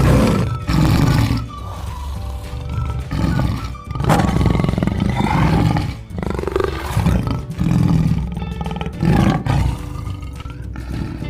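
Tiger roaring and growling repeatedly, in a string of loud roars about a second long each, over background music.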